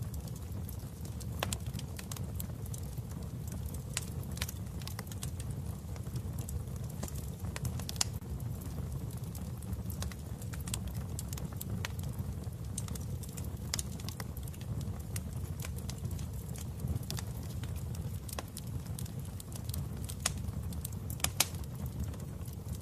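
Wood fire burning in a fireplace: a steady low rumble of flames with irregular crackles and pops, a couple of them sharper than the rest.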